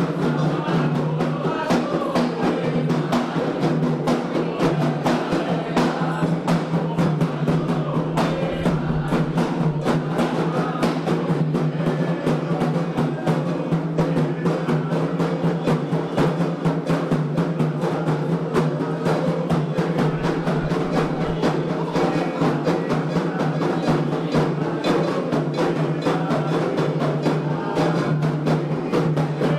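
Candomblé ritual drumming on atabaque hand drums, a fast, unbroken percussion rhythm for the xirê.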